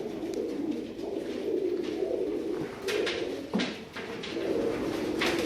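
Domestic pigeons cooing in a loft: a continuous chorus of low, overlapping coos, with a couple of short rustling noises.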